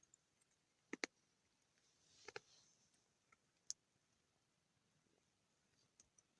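Near silence broken by a few scattered faint clicks and taps: a double click about a second in, another pair a little over a second later, one sharp click near the middle, and small ticks near the end.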